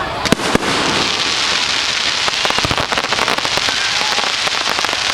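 Fireworks crackling: a dense, steady fizz of many small pops, with two sharper bangs in the first second.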